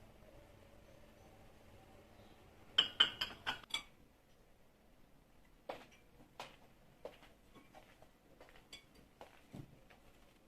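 Hard objects being handled: a quick run of about six sharp clinks a few seconds in, then scattered lighter taps and clicks.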